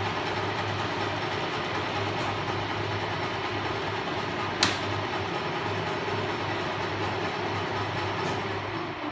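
Sheldon WM56P metal lathe running steadily with a constant hum, turning a cut on steel bar stock, with one sharp click about halfway through. The sound starts to fade right at the end as the machine winds down.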